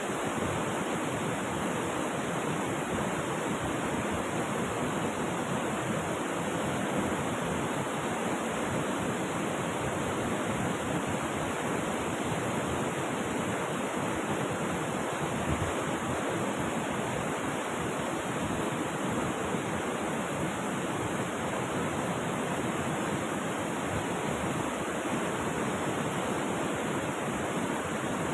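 Steady rush of flowing river water, an even, unbroken sound with no changes.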